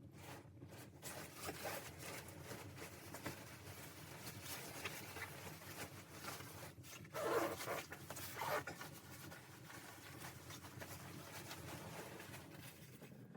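Close rustling and handling noise of fabric or gear, dense small clicks and rustles, with two louder scraping, zipper-like strokes about seven and eight and a half seconds in.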